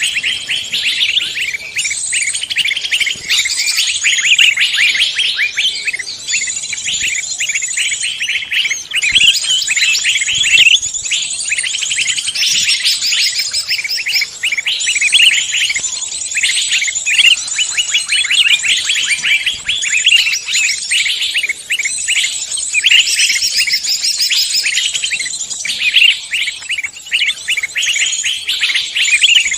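Dense chorus of many songbird species calling and singing at once, with rapid chirps and trills layered without a break. It is a mixed songbird recording used as a lure call to draw in wild songbirds.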